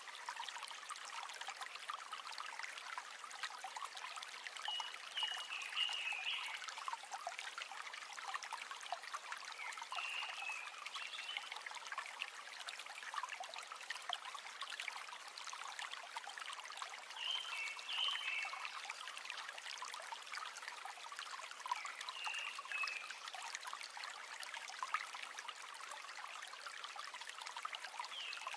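River water trickling and babbling steadily, full of small splashes. A short high chirping call repeats about every five seconds.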